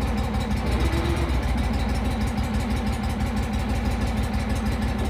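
Kohler Command engine of a Terramite T5C compact backhoe running steadily at a constant speed, with a low, even hum.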